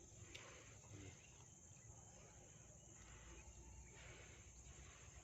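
Near silence: faint outdoor ambience with a steady high-pitched drone.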